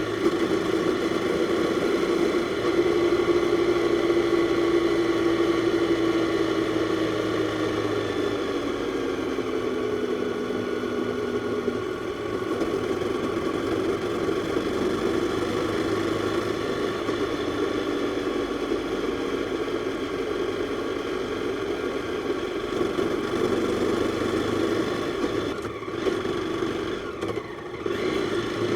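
Jawa 42's single-cylinder four-stroke engine running as the motorcycle is ridden, its note easing lower around ten seconds in, with a brief drop in level near the end.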